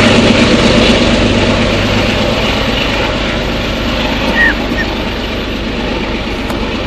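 Diesel passenger train running past: a steady low engine hum with wheel and rail noise, slowly fading as it draws away. A brief high chirp sounds about four and a half seconds in.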